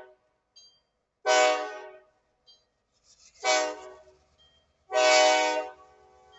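Diesel locomotive air horn sounding three blasts, the last one longer, each a chord of several steady tones. A faint low throb runs underneath from about halfway.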